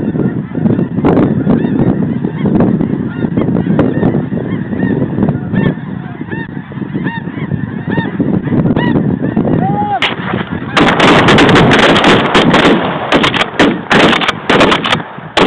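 A large flock of snow geese honking and calling continuously. About eleven seconds in, a rapid volley of shotgun blasts from several hunters firing together breaks out and keeps going over the calling birds.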